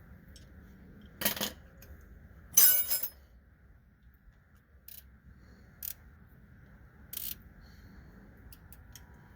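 Metal hand tools clinking against steel suspension parts: a short clink just over a second in, a louder rattling clatter about two and a half seconds in, then three lighter taps spread over the next few seconds.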